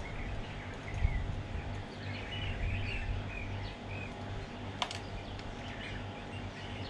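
Small birds chirping now and then over a steady low hum, with one sharp click about five seconds in.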